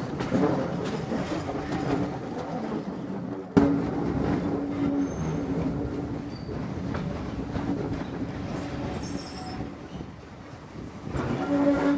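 Heritage railway passenger coaches running along the track, heard from on board: a steady rumble of wheels on rail with some clickety-clack. The sound jumps suddenly louder about three and a half seconds in and drops to a quieter patch near the end.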